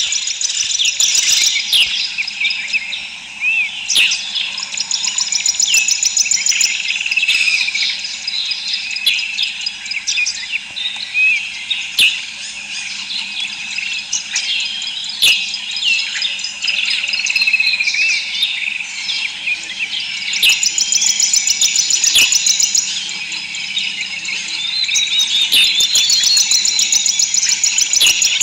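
Many birds chirping and twittering continuously, with fast repeated trills mixed in.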